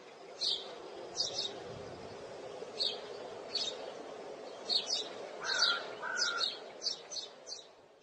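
Small birds chirping: short high chirps every second or so, coming faster in the second half, with a couple of lower whistled notes a little past halfway, over a steady background hiss.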